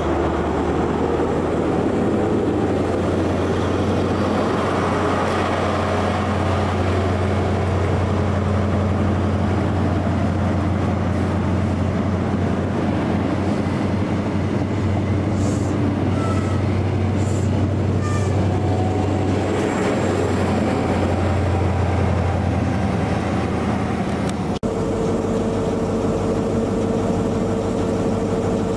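Diesel train running close by: a steady low engine drone with rail noise, and a few brief high squeaks midway. About 25 seconds in, the sound changes abruptly to a steady engine hum with a higher held tone.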